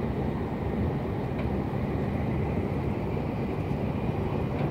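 Shinkansen high-speed train running at speed, heard from inside the passenger car: a steady low rumble.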